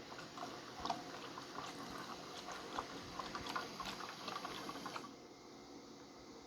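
Water sloshing and splashing in the drum of a 3D-printed Hajdu Energomat washing machine during a wash cycle, with many irregular small splashes and clicks. It stops about five seconds in, leaving a quieter steady background.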